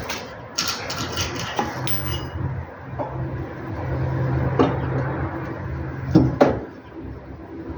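Metal hand tools and car parts clinking and knocking together during work on a car's front suspension: a quick run of clinks near the start, then single knocks spaced a second or more apart, the loudest a double knock near the end, over a low steady hum.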